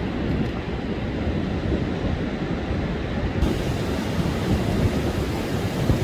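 Heavy sea surf breaking on a sandy beach in a strong wind, with wind rumbling on the microphone. The hiss of the surf grows brighter a little past halfway.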